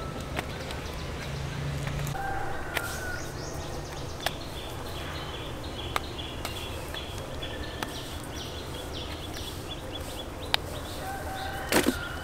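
Birds chirping in a quick run of short high notes, over a steady low hum, with scattered sharp clicks and a few louder knocks near the end.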